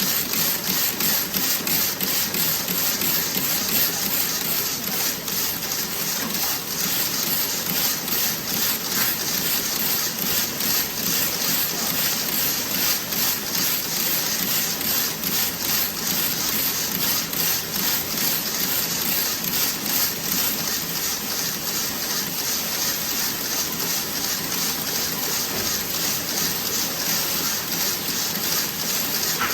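Toe-sock knitting machine running: a steady dense clatter with a fast, even ticking rhythm, the ticks plainer in the first half.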